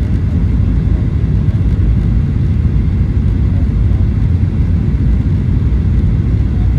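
Steady cabin noise inside a Boeing 737-800 in flight: a deep, even rumble of its CFM56 engines and airflow, with a faint hiss above it.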